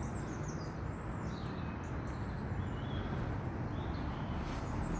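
Scattered faint high bird chirps over a steady low outdoor rumble.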